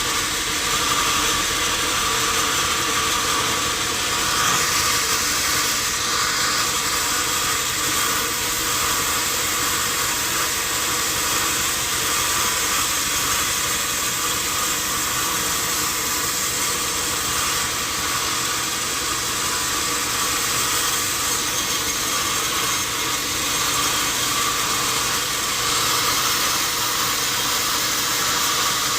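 Sawmill machinery running steadily: a constant high rushing noise over a low, even machine hum, with no change in load.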